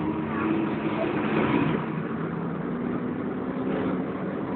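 Volvo B10BLE single-deck bus running along the road, heard from inside the saloon: a steady low engine and cooling-fan drone mixed with road noise.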